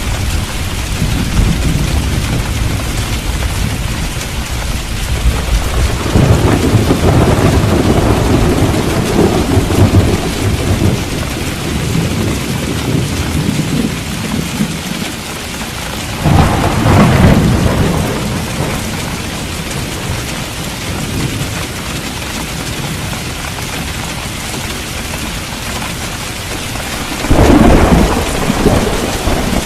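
Steady heavy rain with thunder: a long low rumble about six seconds in, and two louder, sharper claps later, one past the halfway mark and one near the end.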